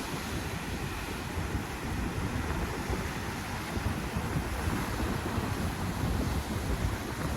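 Ocean surf washing on a beach, with wind buffeting the microphone as a steady low rumble.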